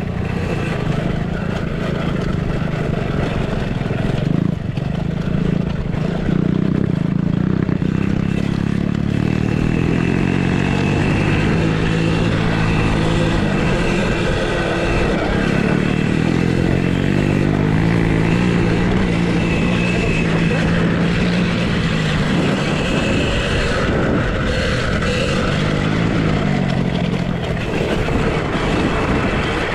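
Small off-road motorcycles running on a dirt track, their pitch rising and falling repeatedly as they rev and ease off, over a steady noise of wind and rattle.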